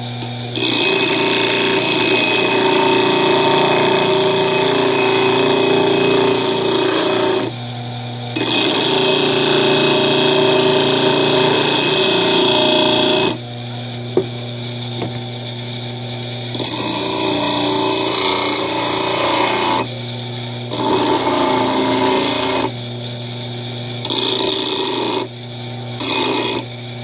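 Homemade disc sander driven by a Mueller washing-machine motor, running with a steady hum while a workpiece is pressed against the sanding disc. The loud abrasive rasping comes in six spells, the first two about five to seven seconds long and the later ones shorter, with only the motor's hum between them.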